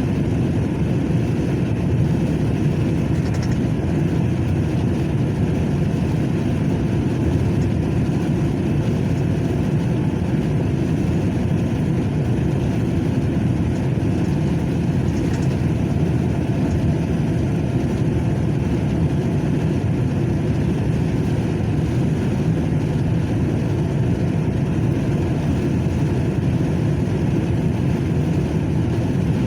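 Truck engine running steadily, a low even sound with no change in level.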